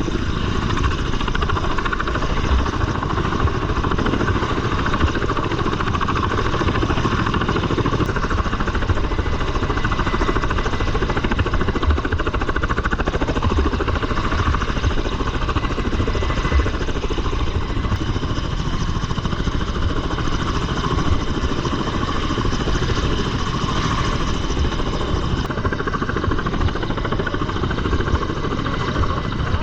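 Helicopter running steadily: a loud, unbroken rotor and engine noise with no let-up.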